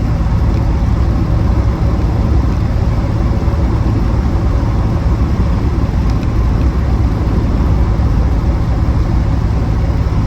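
Reliant Scimitar GTE SE5a's Ford 3.0-litre V6 running steadily at cruise in overdrive, the revs dropped about 500 rpm, with road noise from the moving car.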